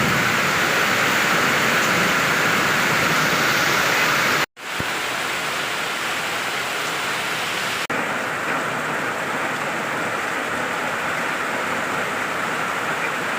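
Steady heavy rain, a dense even hiss. It cuts out abruptly about four and a half seconds in, fades back in slightly quieter, and gives a brief dip near eight seconds.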